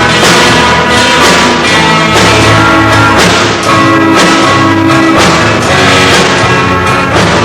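A rock band playing a song live and loud, with drum kit, bass and guitar.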